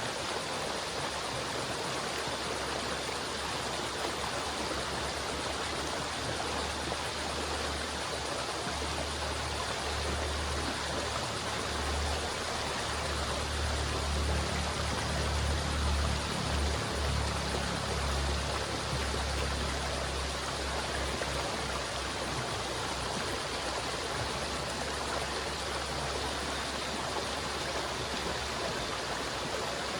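River water flowing steadily in an even rush, with a deeper rumble that grows louder for several seconds in the middle.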